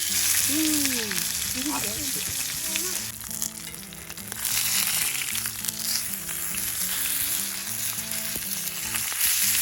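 Food sizzling and frying on a hot iron griddle, a steady dense hiss.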